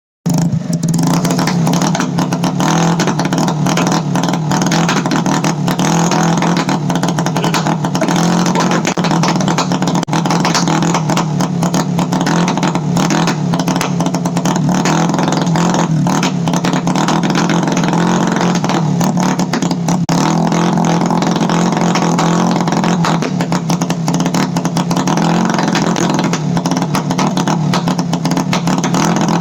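GY6 single-cylinder four-stroke scooter engine held at a steady high pitch against a two-step rev limiter, with rapid exhaust pops and bangs throughout as the ignition cut lets unburnt fuel fire in the exhaust.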